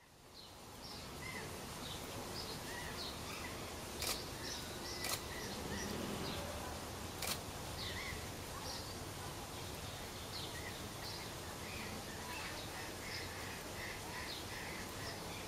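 Outdoor ambience: small birds chirping in short, scattered calls over a steady hiss, with three sharp clicks about four to seven seconds in.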